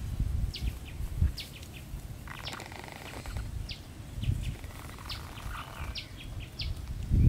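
Small birds chirping, a steady run of short, high chirps a few times a second, over a low rumble.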